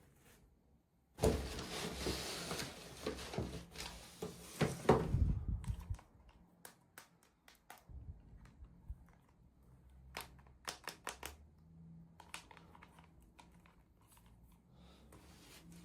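Hands unboxing toy packaging: about five seconds of dense rustling and crinkling, then a run of light, scattered clicks and taps.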